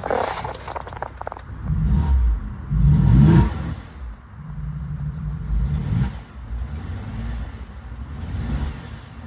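2009 Chevrolet Traverse 3.6-litre V6 engine running, revved briefly twice about two and three seconds in, then running steadily.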